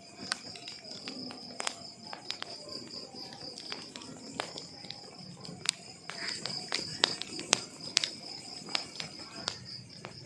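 Wood fire crackling, with sharp irregular pops and snaps over the low rumble of burning logs. A steady high-pitched trill runs underneath throughout.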